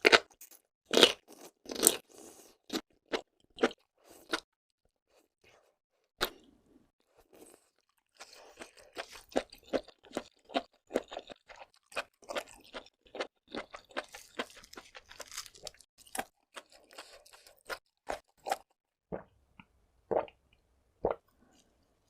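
Close-miked eating of seafood. Sharp crunches and cracks come in the first two seconds, then scattered crunches, then a long run of fast, steady chewing from about eight seconds in. A few louder crunches come near the end.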